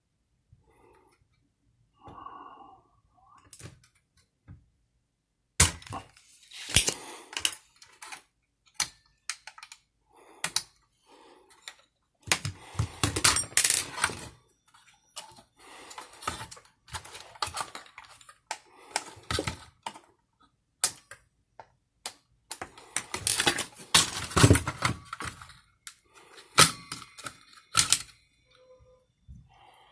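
Irregular clicks, taps and clatter of small hard parts and tools being handled, with denser bursts of rattling a few times.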